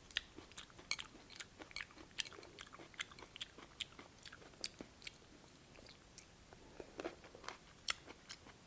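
Close-up chewing of cold cucumber soup: a string of soft, crisp crunches and mouth clicks, a few every second.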